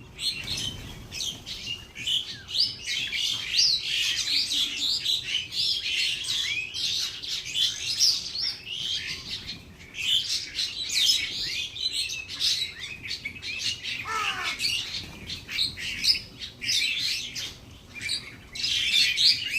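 A flock of small birds chirping and chattering continuously, many short high calls overlapping. One lower call falls in pitch about fourteen seconds in.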